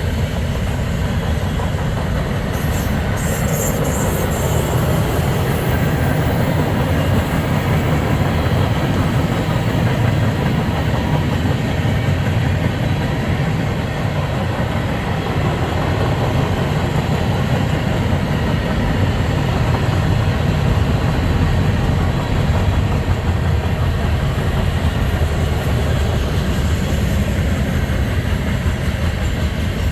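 Freight train passing: a steady, loud rolling rumble of the cars on the rails, with a brief high-pitched rattle about three seconds in.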